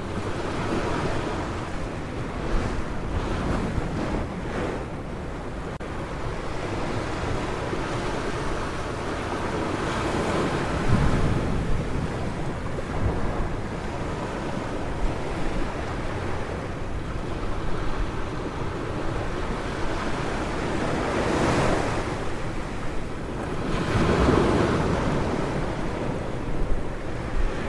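Ocean surf washing onto a beach, a continuous rush with several louder wave surges, the strongest near the end. Wind buffets the microphone underneath.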